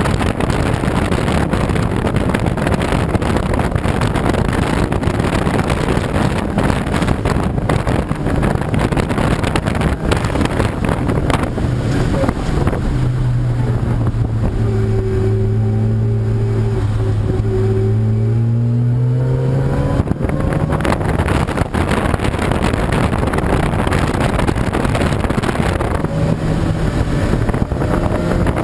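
Race car engines at speed on a circuit, heard through heavy wind noise on the microphone. About halfway through, one car's engine note comes through clearly for several seconds, its pitch rising as it accelerates, then fades back into the wind.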